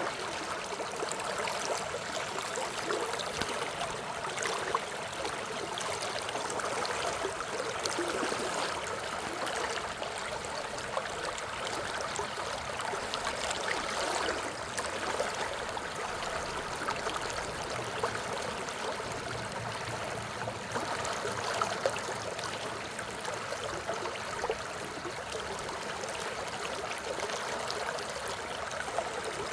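Stream water flowing and trickling steadily over rocks, a constant splashing babble.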